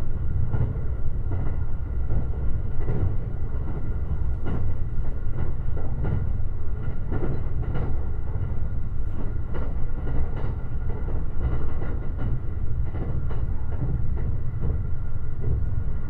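Limited Express Shirasagi electric train running at speed, heard from inside the car: a steady low rumble of wheels on rail with irregular clicks and knocks from the track, and a faint steady whine above it.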